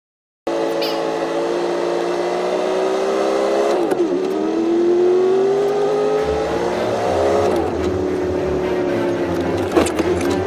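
Vehicle engine accelerating as it pulls away: its pitch climbs steadily, then drops abruptly at each gear change, twice in the middle and once more near the end. It starts about half a second in, and a sharp click sounds just before the last shift.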